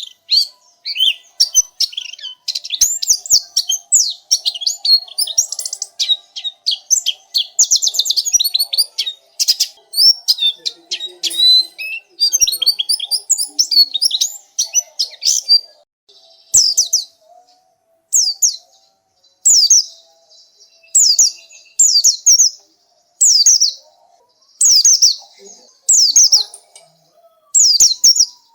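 White-eye (pleci) singing. A rapid, high twittering song runs for about the first half, then gives way to short phrases of quick, falling chirps repeated about every second and a half.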